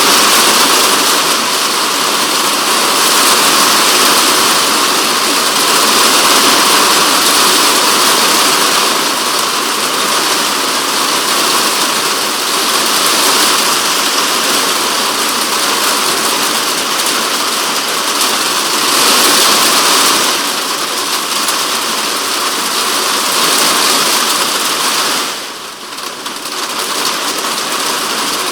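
Heavy typhoon rain drumming on a polycarbonate shed roof, heard from inside the shed. It is a dense, loud hiss that swells and eases in gusts, thins briefly near the end, then picks up again.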